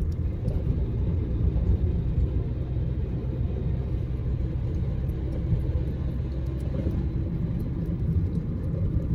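A vehicle being driven: a steady low rumble of engine and road noise.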